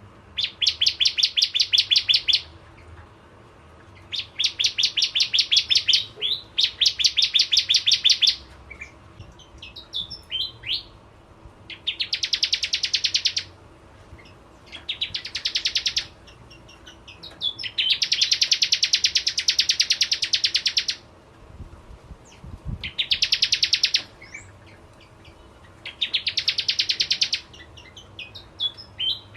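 Bar-winged prinia (prenjak jawa) singing: about nine bursts of rapid, high, pulsing trills, each lasting one to three seconds, with short single chirps between some bursts.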